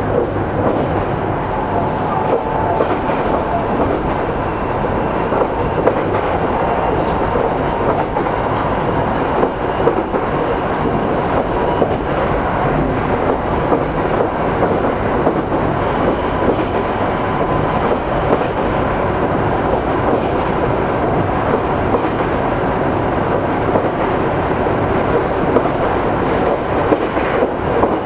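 Onboard running sound of Meitetsu electric train set 317F cruising steadily between stations, wheels knocking now and then over rail joints.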